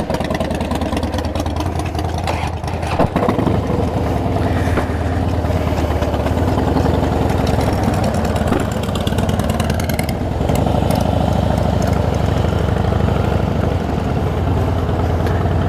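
Harley-Davidson V-twin motorcycle engine running steadily, a little louder from about ten seconds in.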